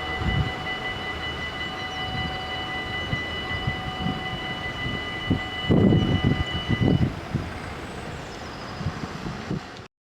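Dutch level-crossing bells ringing steadily, stopping about seven seconds in, over the low rumble of a passing train, with heavier rumbling around six seconds in. The sound cuts off suddenly near the end.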